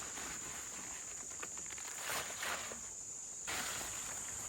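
Insects chirring as a steady high-pitched drone, with a few soft rustles around two seconds in and a broader hiss that comes up suddenly about three and a half seconds in.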